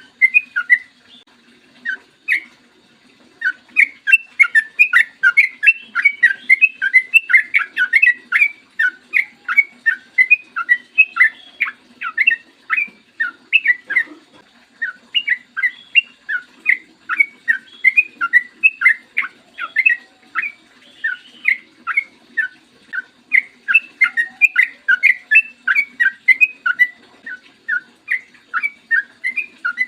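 Yellow-vented bulbul (trucukan) singing a long, fast run of short, bubbly whistled notes, several a second, after a short break about a second in.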